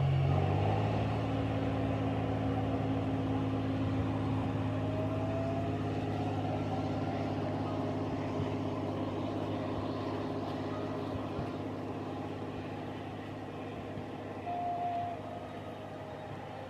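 Diesel railcar pulling out of the station, its engine running loud at first and fading as it draws away. About five seconds in, a rising whine as it picks up speed, and near the end a short steady tone.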